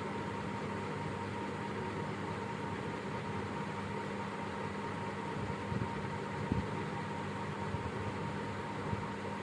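Steady hum and hiss with a constant high tone running through it, with a few light knocks about six seconds in.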